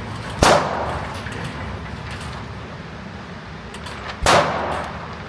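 Two gunshots about four seconds apart, each cracking sharply and dying away quickly.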